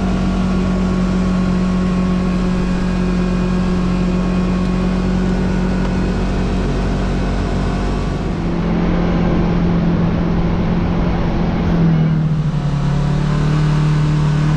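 Side-by-side UTV engine running at a steady pace under way, a continuous drone. About twelve seconds in the pitch drops briefly as the throttle eases, then rises again.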